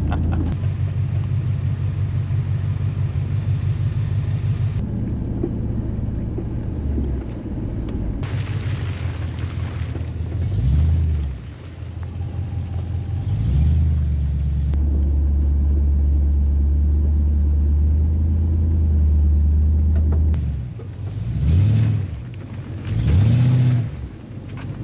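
Four-wheel-drive vehicle's engine running at low revs, with several short revs that rise and fall in the second half.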